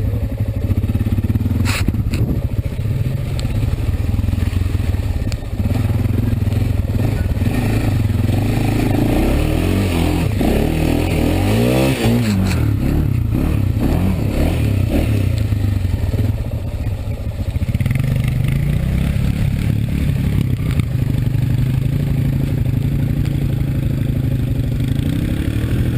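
Single-cylinder Honda ATV engine running under load through mud, its pitch rising and falling with several quick revs around the middle.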